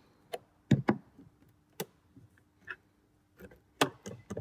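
Scattered sharp clicks and taps of a tool prying at the plastic interior door handle of a VW T4 door, about half a dozen separate knocks.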